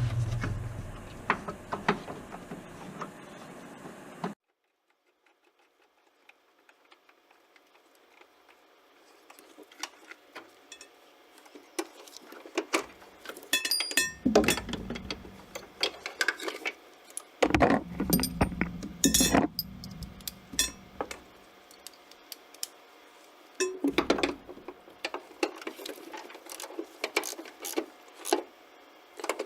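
Hand tools and metal hardware clinking and knocking irregularly during car suspension work, with a few heavier clunks in the middle. A sudden cut to near silence comes about four seconds in, before the clinking starts.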